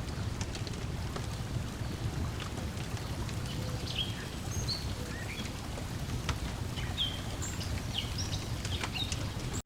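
Lakeside ambience: a steady low wash of water lapping at the shore, with the sharp crackles and pops of a wood fire. Short bird chirps come in from about the middle on.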